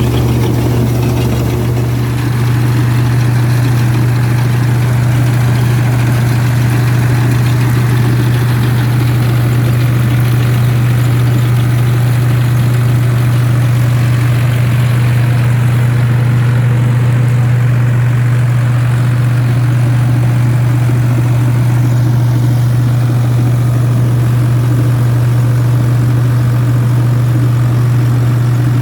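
Ford 3610 tractor's three-cylinder diesel engine running steadily, driving a straw reaper, with a strong low hum throughout.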